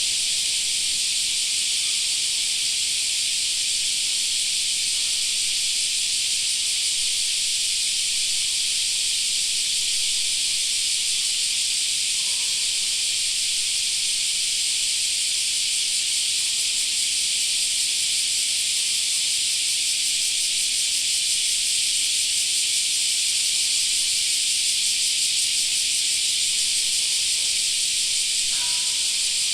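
A chorus of summer cicadas: a dense, steady, high buzzing hiss that never lets up.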